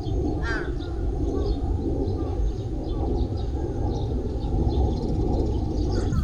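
Birds chirping over a steady rushing outdoor background, with one clear chirp about half a second in and fainter high chirps scattered throughout.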